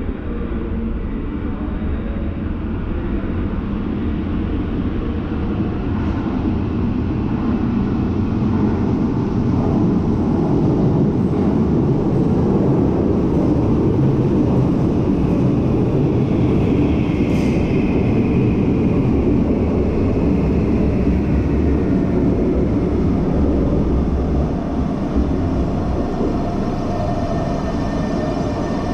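A Renfe Serie 446 electric commuter train runs into an underground station. The steady low rumble of its wheels on the rails builds as it comes along the platform, with a higher whine for a few seconds past the middle.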